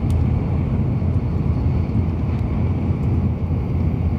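Steady low rumble of a Tokaido Shinkansen train running at high speed, heard inside the Green car cabin.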